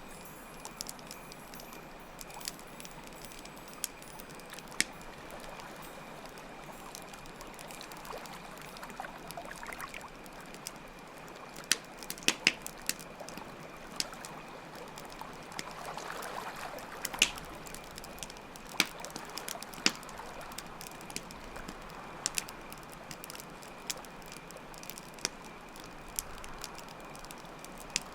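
Layered nature ambience: steady trickling water, a campfire crackling with scattered sharp pops, and crickets chirping in a constant high drone.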